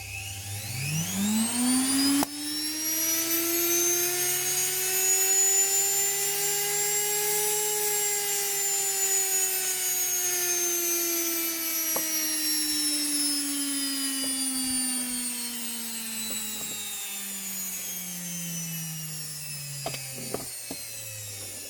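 Universal (brushed) washing machine motor running unloaded: it speeds up quickly at the start, keeps rising slowly to its highest speed about eight seconds in, then gradually slows. A few clicks come near the end.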